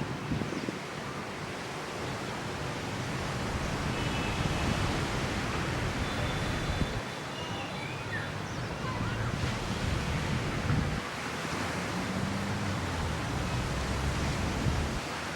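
Ocean surf washing onto a beach in a steady rush, with wind buffeting the microphone in low gusts.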